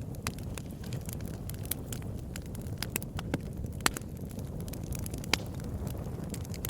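Campfire crackling: irregular sharp pops and snaps over a steady low rumble of the burning fire, with a couple of louder pops in the second half.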